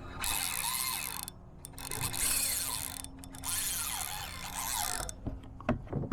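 Fishing reel drag clicking fast in three runs as a hooked fish pulls line off, with a few sharp knocks near the end.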